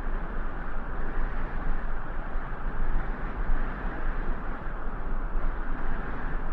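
Steady rushing noise with a low rumble underneath, even throughout with no distinct events.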